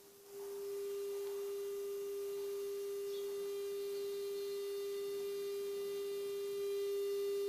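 Steady 400 Hz sine test tone played through a cassette deck. It jumps from faint to loud about a third of a second in and steps up slightly again near the end as the level is readjusted.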